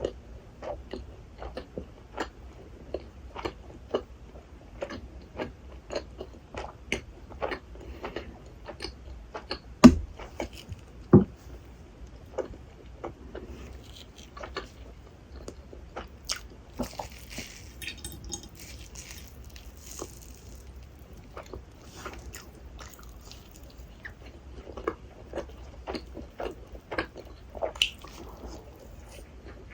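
Close-miked wet chewing and squishing of rasgulla, the syrup-soaked spongy cheese balls, with many small mouth clicks. Two louder knocks come about ten and eleven seconds in.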